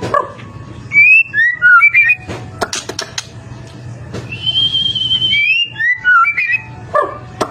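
White-rumped shama (murai batu) singing loud, clear whistled phrases: sliding notes about a second in, then a long held note near the middle followed by more sliding notes, with sharp clicking notes in between.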